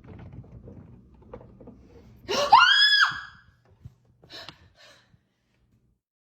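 A person's short, high-pitched scream that rises in pitch, lasting under a second, about two seconds in. Two brief faint sounds follow.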